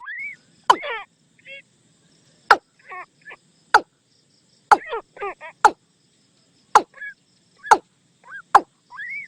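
Watercock calls played as a lure recording: short sharp notes, each sweeping quickly down in pitch, repeated about once a second at uneven spacing, mixed with a few rising whistled glides and bubbly note clusters. A faint high insect buzz runs underneath.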